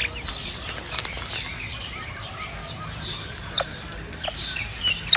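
Songbirds chirping and calling over one another, with three loud, sharp call notes that drop steeply in pitch, the last near the end.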